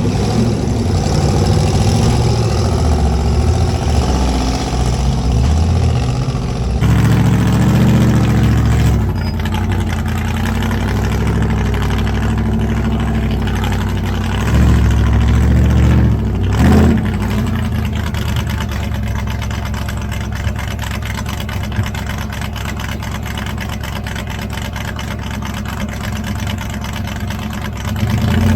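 Off-road rock-crawling rig's engine running near idle, with a few short bursts of throttle as it climbs over rocks.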